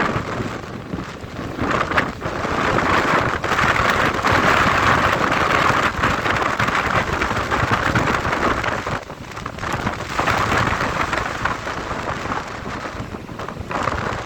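Snowstorm: gusting wind with blowing snow, a dense rushing noise that swells and eases, dipping briefly about nine seconds in.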